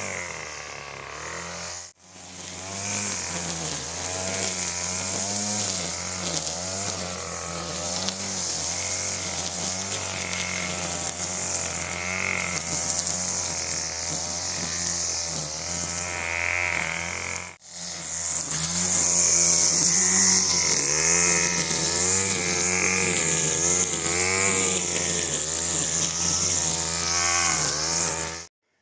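Small two-stroke gas string trimmer running as it cuts weeds, its engine pitch rising and falling with the throttle. The sound cuts out abruptly for an instant twice.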